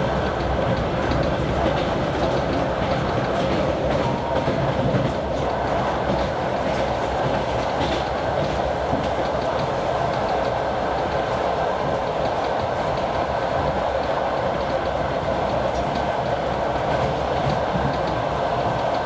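Train running at speed, heard from on board: steady rumble of wheels on the track with the clicks of rail joints, together with the engine of the TEP70 diesel locomotive hauling it.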